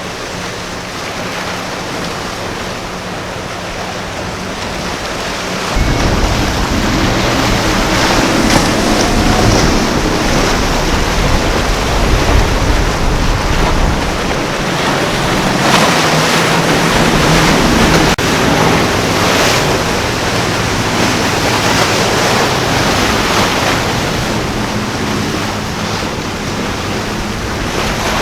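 Surf and churning water in a rough ocean inlet, with wind buffeting the microphone that gets suddenly heavier about six seconds in. Under it runs the low drone of a boat's engines.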